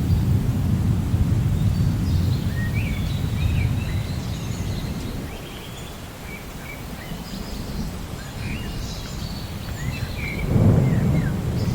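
Rainforest ambience: many small birds chirping and whistling over a low rumble. The rumble eases off midway and swells again near the end.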